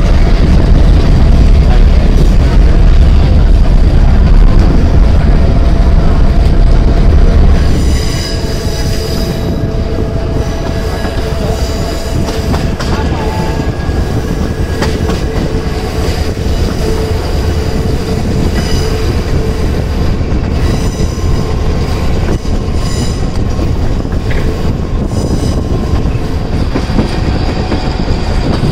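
Passenger train coaches running on curving track: a heavy low rumble for about the first eight seconds, then quieter running with the steel wheels squealing against the rails in thin, steady high whines on the curve.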